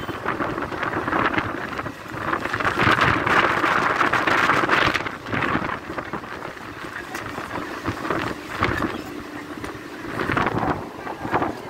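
Passenger train running at speed, heard from on board: a steady rush of running noise mixed with wind buffeting the microphone, swelling louder a few seconds in.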